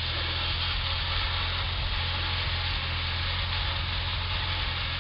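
Farm tractor engine running steadily, a constant low drone.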